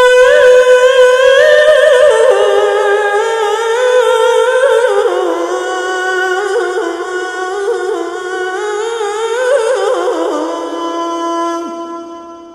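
A man's solo voice singing the adhan, the call to prayer, holding one long ornamented melisma on 'hayya 'ala' that wavers and steps down in pitch. It grows gradually quieter and fades out near the end.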